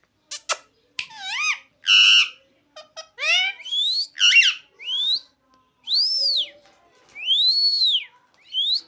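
Pet parrot whistling a string of short calls, some sweeping upward and some arching up and back down, with a few sharp clicks near the start.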